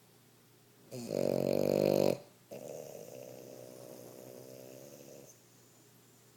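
French bulldog snoring: one loud, rasping snore about a second in that lasts just over a second, then after a short pause a longer, softer snore that stops about five seconds in.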